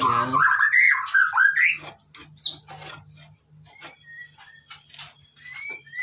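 White-rumped shama giving harsh squawking calls for about a second and a half, then a few short high whistled notes: the parent bird's angry alarm at its nest box being disturbed. Light knocks and scrapes of a hand cleaning out the wooden nest box run through the second half.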